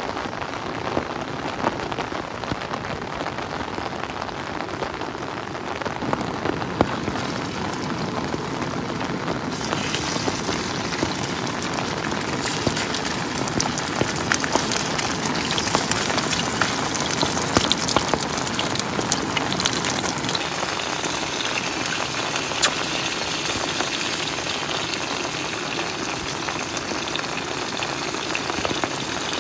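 Heavy rain falling steadily on a tarp shelter, with scattered sharp drop ticks. A brighter hiss joins about ten seconds in and carries on.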